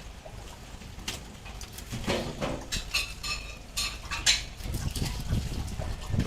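Kitchen utensils and dishes clinking and knocking: a handful of separate sharp clinks, some with a short metallic ring.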